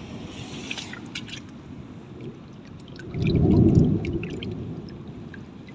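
Sea water sloshing and gurgling at the shore, with scattered small clicks of splashing water; a wave surges in loudly about three seconds in, then washes back.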